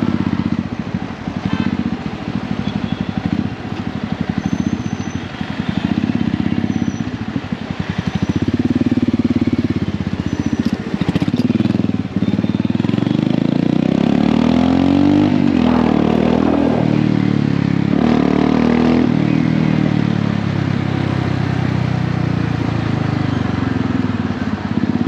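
Royal Enfield Hunter 350's 349 cc single-cylinder engine and exhaust on the move, its pitch rising and falling with the throttle. There are two clear rising pulls about halfway through as the bike accelerates.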